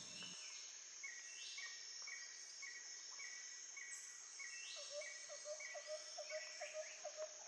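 Faint rainforest ambience with a steady high insect buzz and a short call repeated about twice a second. From about halfway through, a lower chirping joins in at about four a second.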